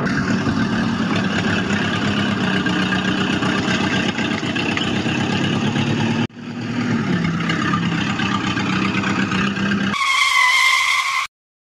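Small electric motor of a homemade toy tractor running with a steady buzz. It breaks off abruptly about halfway through and builds back up. Near the end a short, clear pitched tone lasts about a second, then the sound stops.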